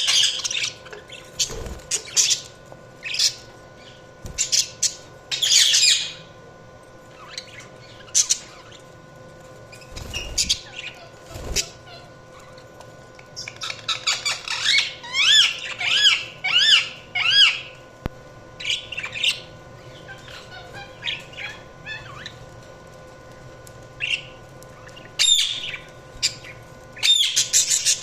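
Budgerigars chirping and squawking in short, irregular bursts of high calls, with a dense stretch of rapid warbling notes about halfway through.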